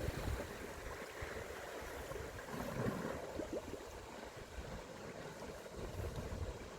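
Sea water washing and lapping along the shore, with a low, gusty rumble of wind on the microphone.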